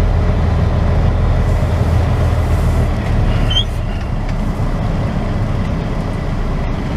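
Semi truck's diesel engine running under way, a steady heavy low rumble that eases a little about three seconds in.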